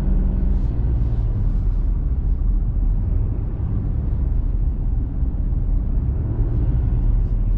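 Steady low rumble of road and engine noise inside a moving vehicle's cabin, from the tyres and the diesel engine.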